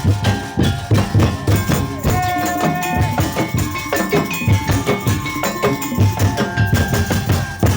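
Madurese tong-tong ensemble playing live: dense, driving rhythm of drums and wooden slit-drum percussion, with held melodic notes over it.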